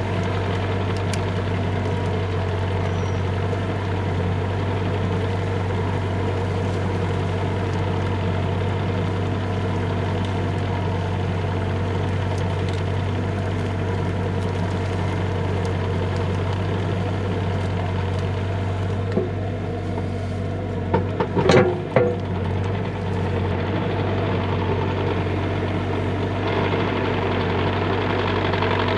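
Bobcat E35 mini excavator's diesel engine running steadily, with a brief cluster of knocks and a short squeal about three-quarters of the way through.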